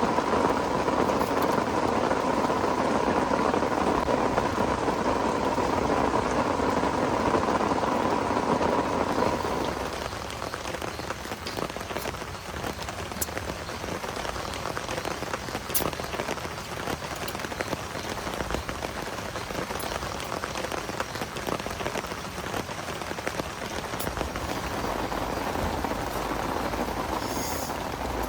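Heavy rain falling steadily, with scattered sharp drop ticks. It is louder and denser for the first ten seconds, then eases off a little.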